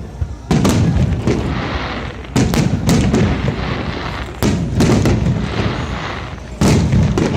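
Aerial fireworks shells bursting overhead: four deep booms about two seconds apart. Each is followed by a crackle and a slowly fading, rumbling echo.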